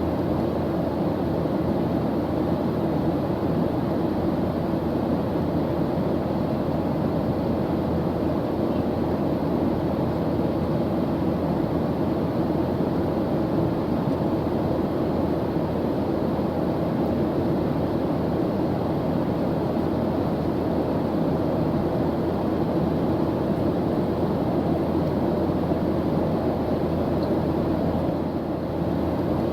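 Airplane engine noise in flight: a steady, even drone of low noise with no separate events, dipping slightly for a moment near the end.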